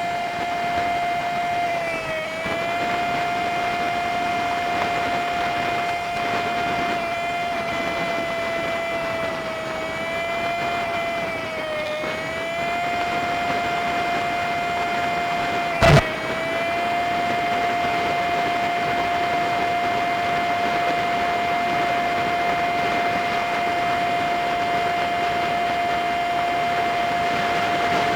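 Honda Super Cub 50's small single-cylinder engine and road noise while riding, played back at five times speed, so it runs as a steady high hum. Its pitch dips briefly a few times as the revs ease, and there is one sharp click about two-thirds of the way in.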